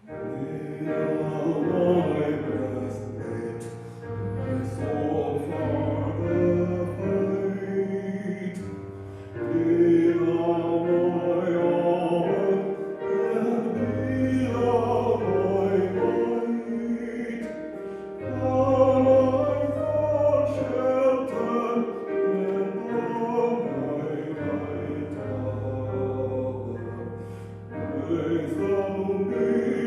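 A hymn sung by voices over held low keyboard notes, a verse starting right after a short pause.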